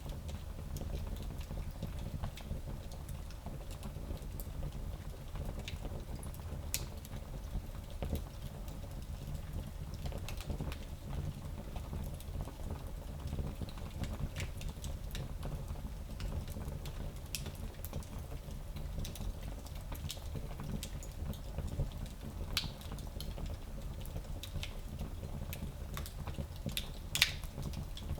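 Fire burning in a small fireplace, crackling: scattered sharp pops and snaps over a steady low rumble, with one louder pop near the end.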